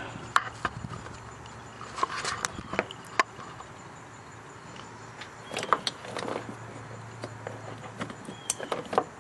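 Scattered clicks, taps and rustling of hands handling loose wiring and plastic harness connectors, over a faint steady low hum.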